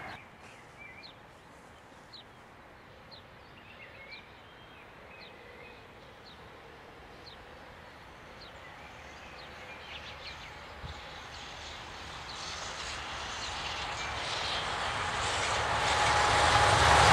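SNCF electric locomotive hauling a train of passenger coaches, approaching: the rumble and wheel-on-rail noise grows steadily from faint to loud over the last several seconds.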